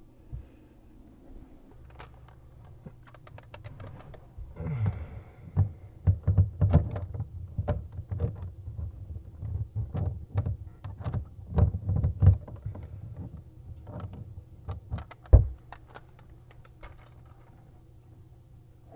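Irregular knocks, clunks and light rattles of tools and fixture parts being handled while a bathroom faucet is fitted at a vanity. The knocking is busiest in the middle, with one sharp loud knock a few seconds before the end.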